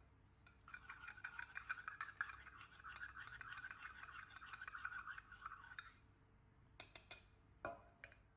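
A metal spoon stirring milk in a glass, a rapid steady rattle of small clinks against the glass for about five seconds, followed by a few separate taps near the end.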